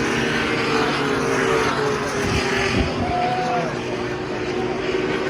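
IndyCars' twin-turbo V6 engines running at pace-car speed, a steady drone of several engines. One car's note falls as it passes, a little over halfway through.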